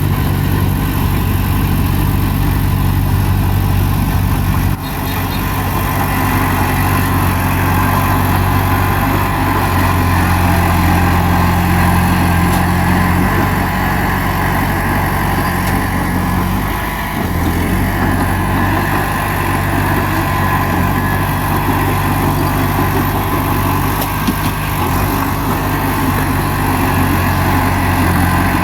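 Bulldozer's diesel engine running steadily, with its note dipping briefly and recovering about seventeen seconds in.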